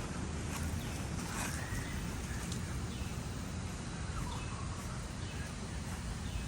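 Outdoor ambience: a steady low rumble with a few faint, short bird calls over it.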